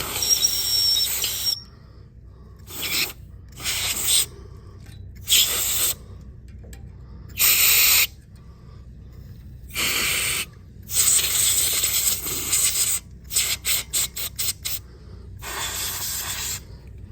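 Compressed air blown in bursts into the pilot hole of a propane heater to clear out dust that keeps the pilot from staying lit. The hissing blasts vary in length, and about three-quarters of the way through comes a run of quick short puffs.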